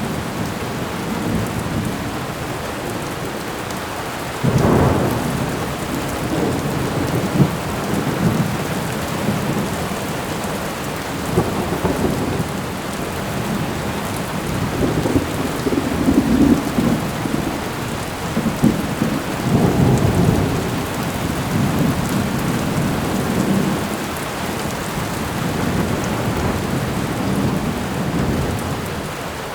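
Thunderstorm: steady rain with low rumbles of rolling thunder that swell several times, the first about four seconds in.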